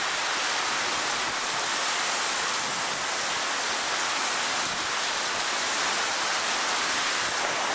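Very heavy thunderstorm rain pouring down steadily, a dense, even hiss.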